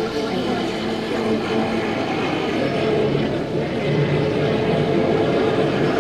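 A 50cc motor scooter's engine running steadily under way, a continuous drone.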